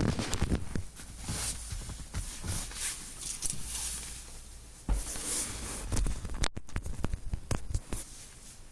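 Crackling, snapping clicks from the rear hatch and cargo area of a Subaru Legacy BH5 wagon, irregular and uneven in strength over a shifting hiss, with one sharp, loud click about six and a half seconds in. It is an unexplained rattle that remains even with the hatch and cargo trim, spare-tyre tray and tonneau cover taken out.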